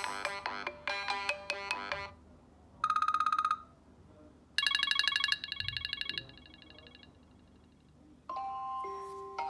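iOS 7 ringtones and alert tones played one after another on an iPhone 4: a melodic ringtone ends about two seconds in, followed by a short fast-pulsing buzz tone, then a longer pulsing trill that fades away. Near the end another ringtone starts with slower held notes.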